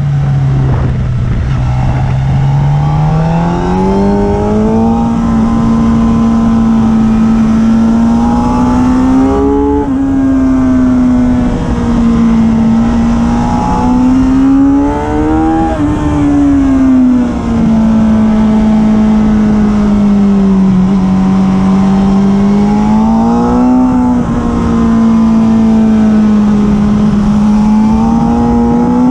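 Suzuki sport motorcycle's engine heard onboard while lapping a race track, running at steady high revs that rise and fall with throttle and gear changes through the corners, over steady wind noise.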